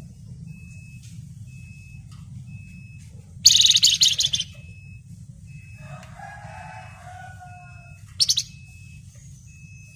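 Flamboyan songbird singing: a loud, rapid, high chattering trill about three and a half seconds in, lasting about a second, and a shorter burst near eight seconds. Between them runs a short high peep repeated about twice a second. A lower drawn-out call comes in around six to seven seconds.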